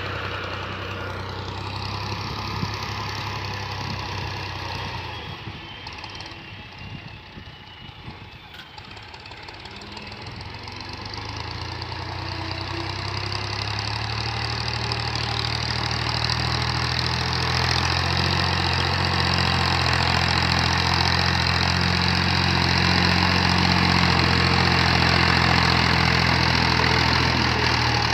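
Tractor engine running. It fades to its quietest about seven seconds in, then grows louder again and holds steady through the second half.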